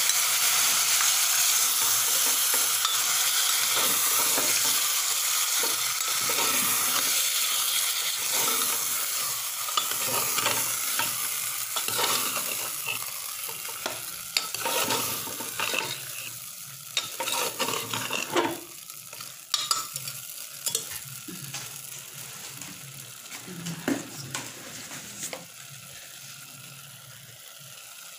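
Food frying and sizzling in an aluminium pressure-cooker pot as a metal spoon stirs and scrapes against the pot. The sizzle is loudest at first and dies down over the second half, leaving separate spoon scrapes and knocks.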